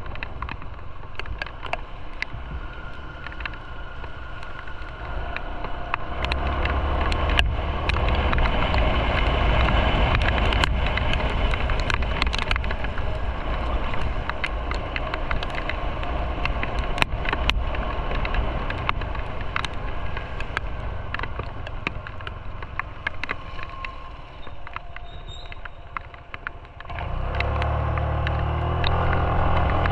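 Motorcycle on the move: engine and road noise with frequent small knocks. The engine note builds about six seconds in, eases off in the last third, then comes back strongly as the bike pulls away again near the end.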